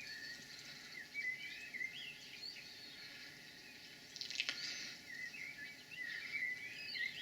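Small birds singing, a steady run of short, quick chirping phrases, with one brief sharp click about four and a half seconds in.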